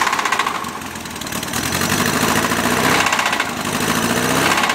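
1972 Volkswagen Beetle's air-cooled flat-four engine running, its level swelling and easing a couple of times. It sounds really bad and way off to the owner, who does not know the cause.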